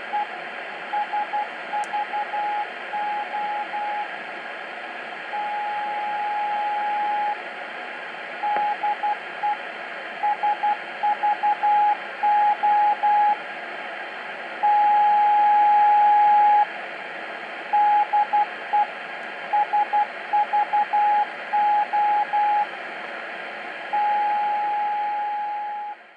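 Grundig Satellite 750 shortwave receiver playing a Morse code (CW) signal: a single steady beep keyed on and off in dots and dashes, with two long dashes of about two seconds each, over steady static hiss. It cuts off at the end.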